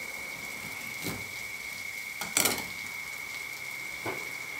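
Chili paste with grilled fish sizzling gently in an aluminium wok over low heat, a soft steady crackle under a faint high whine. A few light knocks come through it, the sharpest about halfway through.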